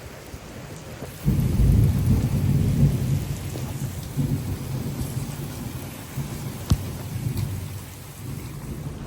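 Heavy rain pouring steadily. About a second in, a loud, deep thunder rumble breaks in suddenly and slowly dies away. A single sharp click comes near the middle.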